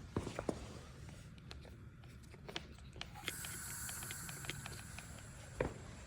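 Scattered clicks and taps of hand work, then about three seconds in a steady hiss with a thin whistle starts: R600 refrigerant gas escaping from the fridge's sealed system.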